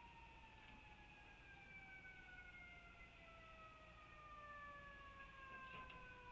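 Faint distant siren, its pitch falling slowly and steadily as it winds down.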